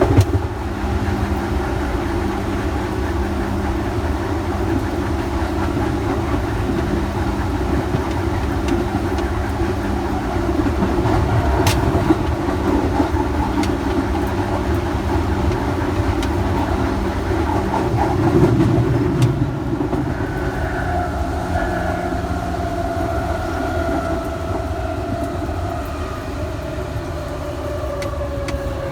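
Electric train running with a steady rumble. About two-thirds of the way in, a traction-motor whine sets in and falls slowly in pitch as the train slows.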